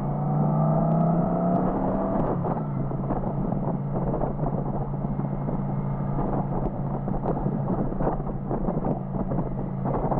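Motorcycle engine running at road speed under heavy wind rush, its pitch stepping down about two seconds in and then holding steady.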